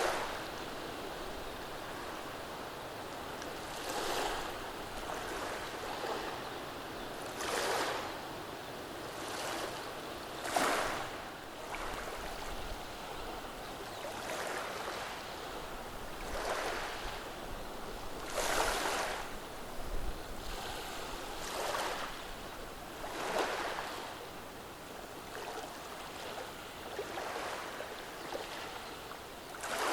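Gentle sea waves washing over a beach of rounded stones. Each wash swells and fades every three or four seconds, with a sharper break about ten seconds in.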